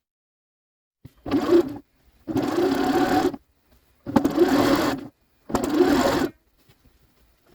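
Electric sewing machine stitching in four short runs, each about a second long, with brief pauses between them.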